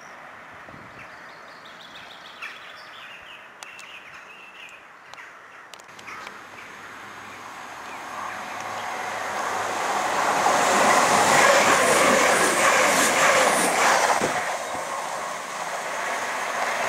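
Birds chirping over a quiet background, then a train approaching at speed: a rushing noise that builds for several seconds, peaks, and eases off near the end.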